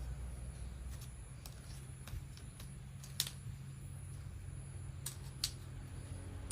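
Scattered light clicks and taps of plastic toy train parts being handled, irregular and spaced apart, the loudest about three seconds in, over a steady low hum.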